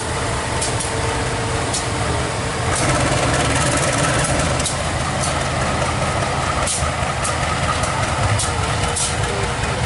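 Heavy diesel locomotive engine running steadily with a deep rumble, with scattered sharp clicks throughout.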